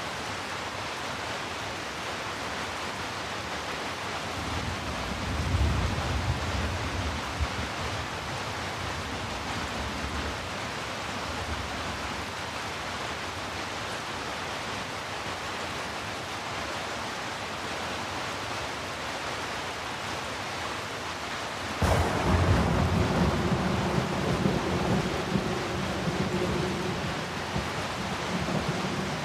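Steady rain hiss with thunder: a low rumble about five seconds in, then a sudden crack a little past twenty seconds in that rolls on for several seconds.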